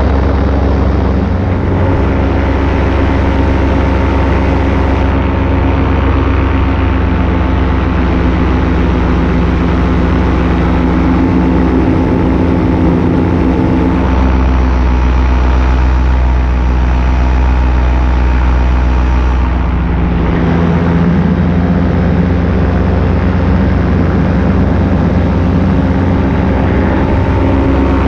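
Paramotor engine and propeller running steadily in flight. The engine note shifts slightly about halfway through and shifts again about six seconds later.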